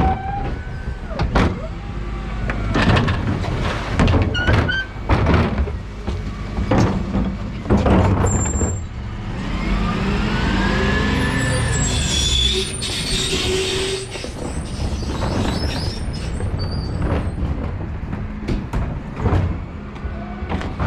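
Dennis Elite 6 refuse truck at work: the engine runs steadily under frequent clanks and bangs from the bins and the bin lift. About halfway through, a whine rises and falls in pitch.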